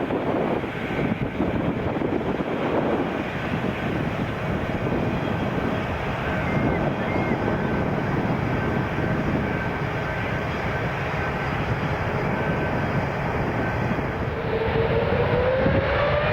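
Airbus A350 jet airliner's Rolls-Royce Trent XWB engines passing on landing approach, a steady jet noise with a faint steady whine. Near the end the sound changes and a slowly rising engine whine takes over.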